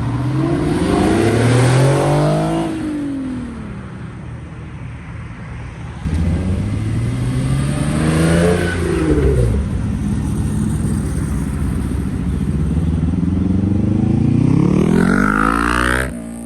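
Modified muscle car engines revving hard as cars accelerate away, in three separate pulls, each a climbing engine note. The last pull climbs steeply and cuts off abruptly near the end.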